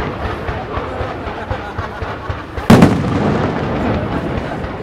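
Aerial fireworks display: a continuous rumble and scattered small pops, with one sharp, loud shell burst about two and a half seconds in that echoes away.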